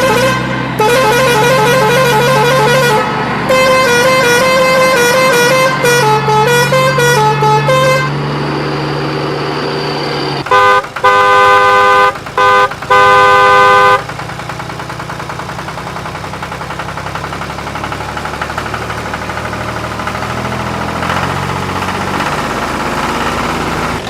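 A vehicle horn playing a warbling melody that steps up and down in pitch for several seconds, then a few loud blasts of a steady multi-tone horn about eleven to fourteen seconds in, followed by a steady engine sound.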